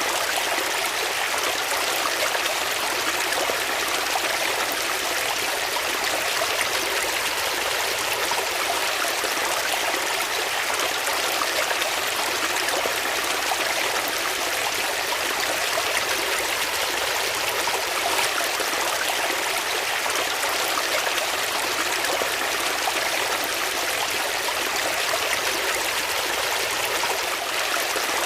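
Water flowing steadily: an even, unchanging rush with little bass.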